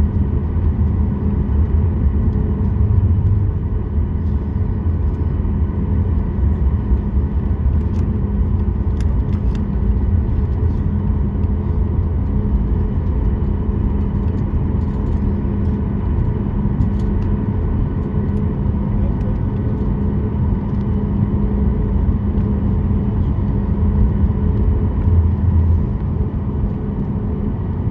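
Steady cabin rumble of a Boeing 737 MAX 8 with its CFM LEAP-1B engines running, a constant hum over a deep roar, with a few faint clicks.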